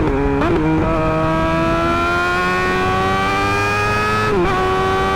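Suzuki GSX-R600 inline-four engine through an M4 GP slip-on exhaust, accelerating under load. The pitch drops briefly for quick upshifts near the start and about half a second in, rises steadily for about three seconds, then drops again with another upshift near the end.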